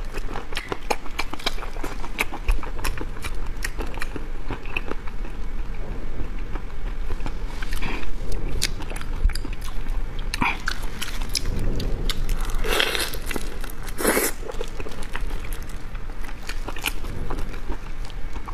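Close-miked wet chewing and biting of raw prawns in chili sauce: a steady run of small smacking clicks, with a couple of longer, louder mouth sounds about two-thirds of the way through.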